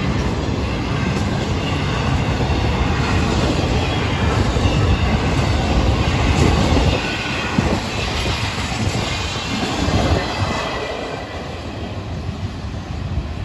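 Florida East Coast freight train's intermodal flatcars rolling past, steel wheels running on the rails, easing off after about ten seconds as the train moves away.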